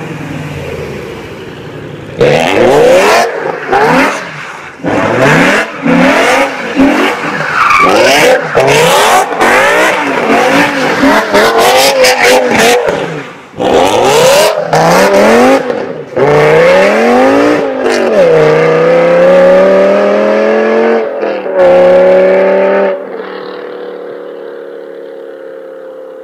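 BMW M5 E60's V10 engine revving hard again and again, its pitch sweeping up and down, while the spinning rear tyres squeal in a drift. Later it holds a high, steady note for a few seconds, then settles to a lower, quieter note near the end.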